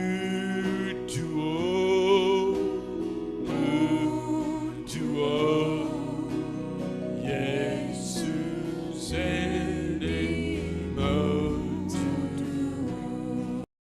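Gospel song with singing over instrumental backing, a deeper bass line coming in about two-thirds of the way through; the sound cuts off abruptly near the end.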